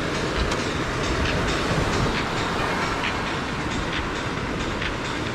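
Wood campfire crackling, with sharp pops several times a second over a steady low rushing rumble.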